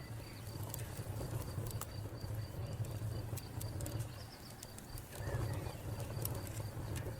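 Wood fire crackling with scattered sharp pops, over a cricket chirping in a steady, rapid high-pitched pulse and birds calling in the background.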